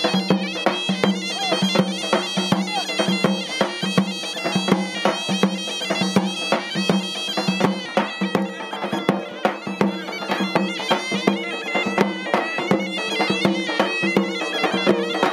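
Zokra playing a fast North African folk tune over a steady low held note, with quick percussive beats running through it.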